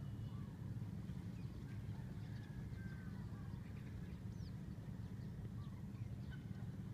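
Faint, scattered chirps and short whistles of birds over a steady low rumble.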